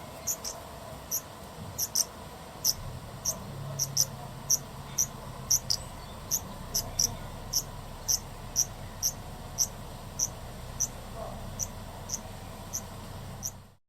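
A cricket chirping in short, high, evenly spaced chirps, about two a second, over a faint low rumble. The sound cuts off suddenly near the end.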